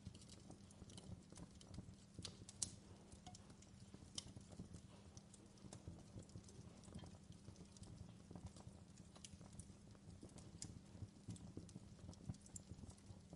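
Wood fire crackling: irregular small pops and snaps over a low steady rumble, with one sharper pop about two and a half seconds in.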